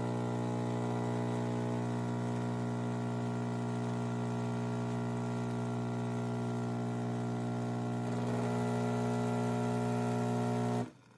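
Philips 4300 espresso machine's pump running with a steady hum. It shifts slightly and gets a little louder about eight seconds in, then cuts off suddenly near the end.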